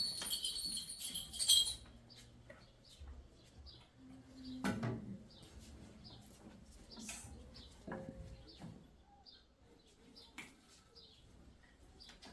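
Small birds chirping in short, repeated high calls, with a few scattered knocks. A bell-like ringing sounds at the start and stops after nearly two seconds.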